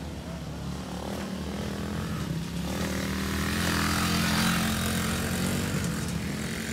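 Pit bike engine running, growing louder from about three seconds in and easing off near the end.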